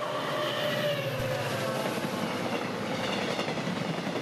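Diesel-hauled passenger train running past close by on the track: a steady rush of wheels on rail, with faint engine tones that fall slightly in pitch as it goes by.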